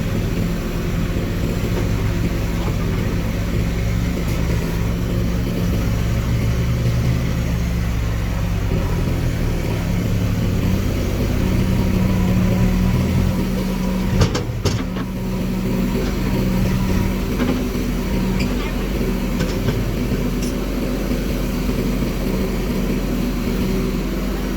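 Heavy machine engine running steadily, its pitch stepping up about eleven seconds in, with a short sharp knock about halfway through.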